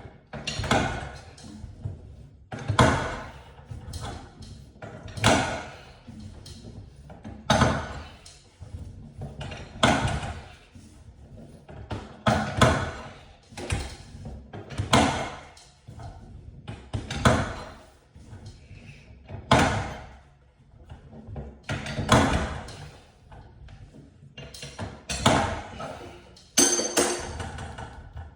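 Regular knocks, about one every two and a half seconds, a dozen in all, each swelling and dying away.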